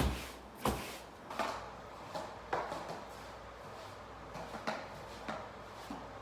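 A series of about ten short knocks and thuds at uneven intervals, the first two loudest, over a low steady hum.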